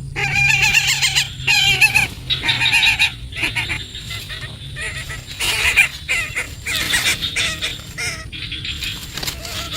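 Nestling birds calling in the nest: short, wavering calls repeated one after another throughout, some running into each other.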